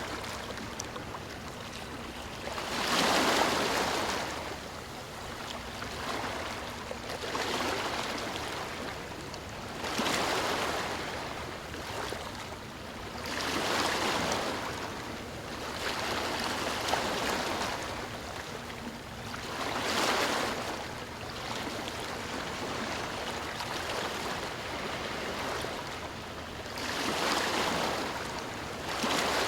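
Sea waves breaking and washing in. The surf swells and falls back every few seconds over a steady hiss of moving water.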